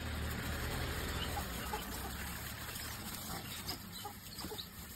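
Short bird calls scattered through, over a low steady hum that fades out about two seconds in.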